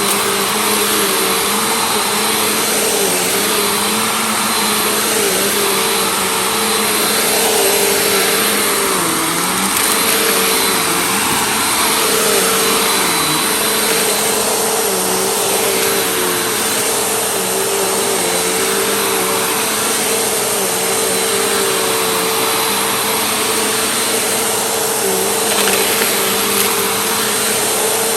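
Vacuum cleaner running steadily, its motor tone dipping slightly in pitch every few seconds.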